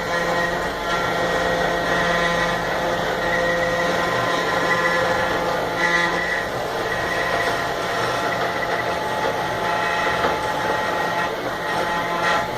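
CNC router spindle running steadily while cutting into wood, a constant whine over the noise of the cut.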